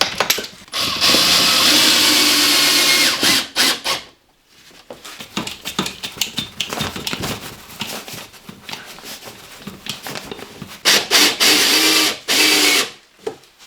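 A hand-held electric power tool running in two bursts of about two seconds each, with scattered knocks and clicks of handling between them.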